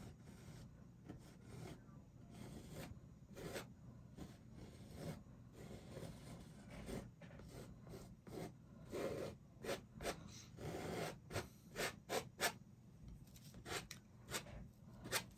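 A paintbrush rubbing and scraping paint onto a canvas in short, faint strokes that come faster in the second half.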